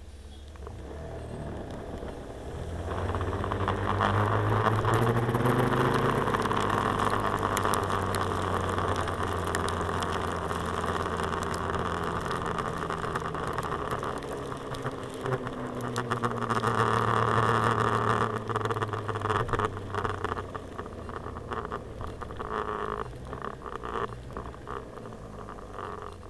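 Taiwan Suzuki GSR scooter engine, recorded from a dashcam on the handlebars. It rises in pitch as the scooter pulls away about three seconds in, runs at speed with a steady rushing noise over it, picks up again partway through, and eases off near the end.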